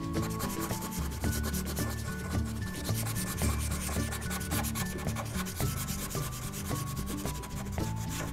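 Felt-tip marker scratching across paper in quick back-and-forth strokes, colouring in a shape.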